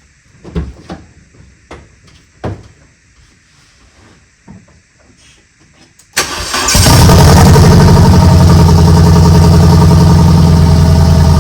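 A few sharp clicks, then about six seconds in the Renault Clio's swapped-in Megane R26 engine fires suddenly on the first start attempt and keeps running loudly and steadily.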